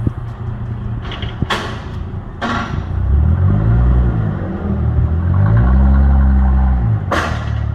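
Straight-piped Chrysler Crossfire V6 idling with a deep drone, then revved twice, each blip rising and falling in pitch. A few short whooshes are heard between the revs.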